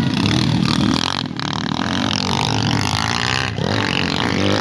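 Off-road enduro motorcycle engines running and revving, the engine note rising and falling.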